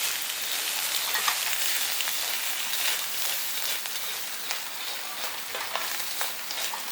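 Chicken, shrimp, garlic and onion frying in hot oil in a pan: a steady sizzle with frequent small crackles.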